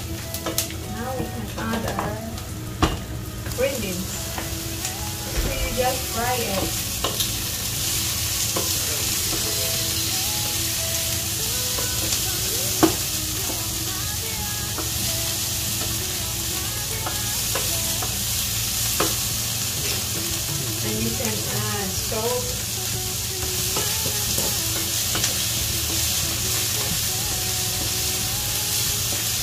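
Green beans and onion frying in oil in a pan, a steady sizzle that grows louder about three or four seconds in. They are stirred with a wooden spatula that scrapes and now and then knocks sharply on the pan.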